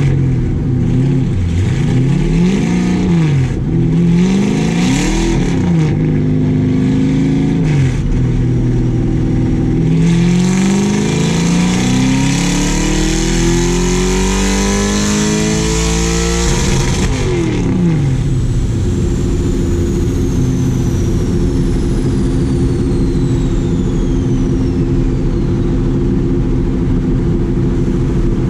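Chevrolet Camaro Z/28.R race car's V8, unrestricted, on a chassis dyno: two quick revs, then a full-throttle pull climbing steadily in pitch for about six seconds. The throttle is cut off sharply, the engine drops back to a steady idle, and a high whine fades downward.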